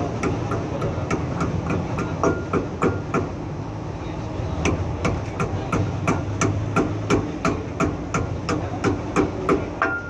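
Hammer tapping on steel at the wheel hub: a long run of quick, even blows, about three a second, some leaving a short metallic ring.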